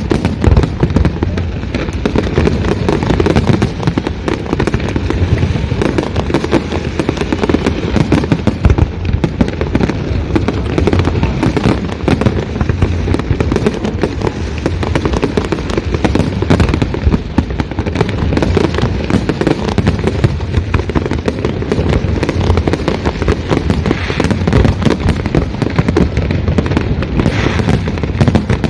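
Fireworks display: a dense barrage of overlapping bangs and deep booms with no pause between them.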